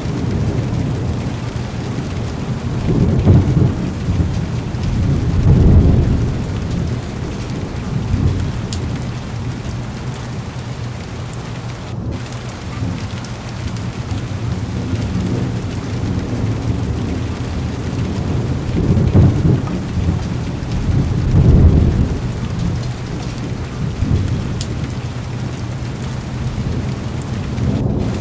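Heavy rain beating steadily on a car's windows and body, with low thunder rolling in twice, a few seconds in and again about two-thirds through.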